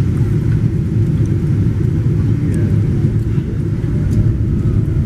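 Steady, loud low rumble of an airplane during landing.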